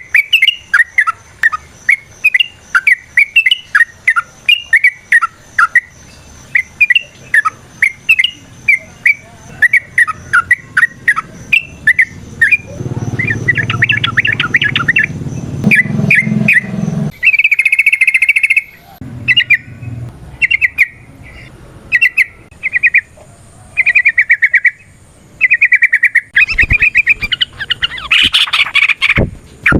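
Yellow-vented bulbul singing: a fast run of short chirps, breaking after about seventeen seconds into longer, separate phrases. A low rumble sounds under the song for a few seconds before the change.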